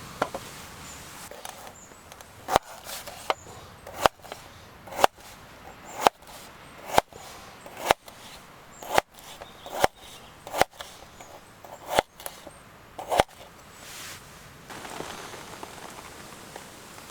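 About a dozen sharp blows struck in a steady rhythm, roughly one a second, each with a short ring, stopping near the end.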